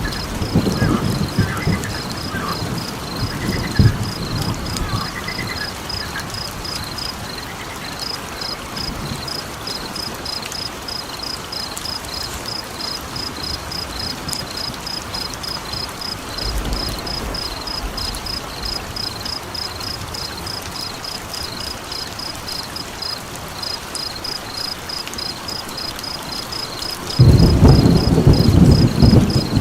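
Layered night-time ambience: a high, rapid chirping that pulses evenly throughout, over a steady hiss like rain. Deep rumbling, like thunder, comes at the start and swells loud again near the end, and a few short higher calls sound in the first several seconds.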